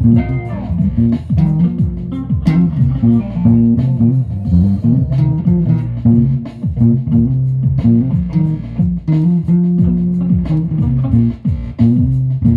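Guitar music with a prominent bass guitar, the plucked bass notes sliding between pitches over a steady rhythm.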